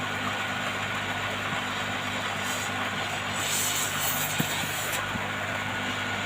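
Hot air rework gun blowing steadily, a broad hiss with a low motor hum, as it heats a phone's display to remove it. A single short click about four seconds in.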